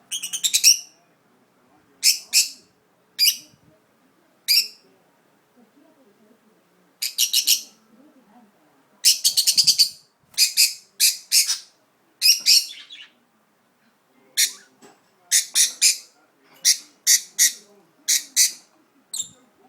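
Budgerigar giving short clusters of sharp, high chirps, with pauses of a second or two between them. The owner presents these as the calls of a budgie unsettled at being set in an unfamiliar place.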